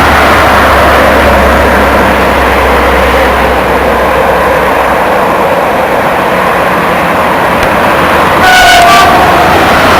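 A train passing close by, a loud steady rattle and rumble of wheels on rail. A short horn blast of a few notes at once sounds near the end.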